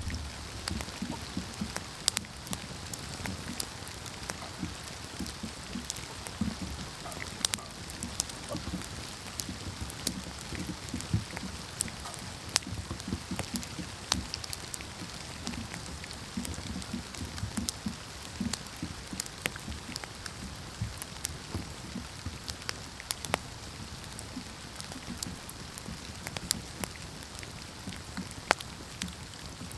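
Wood campfire burning, crackling with irregular sharp pops and snaps over a steady hiss and a low flutter of flames.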